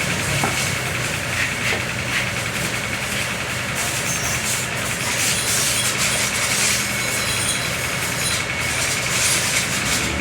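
Steady machine hum, like an engine or motor running, with a faint regular pulsing. Bursts of high hissing noise come and go from about four seconds in.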